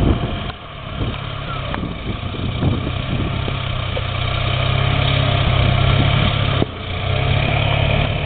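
Ford F-350 pickup's engine running hard as the truck tries to climb a snow-covered, icy hill, growing louder from about three seconds in, with a brief drop near the end.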